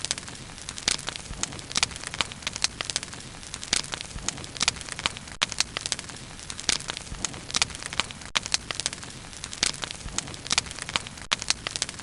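Wood bonfire crackling steadily, with many sharp pops and snaps each second over a soft hiss.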